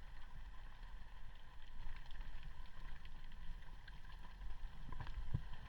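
Underwater ambient noise picked up by a diving camera: a steady low rumble of moving water with scattered faint clicks and crackles.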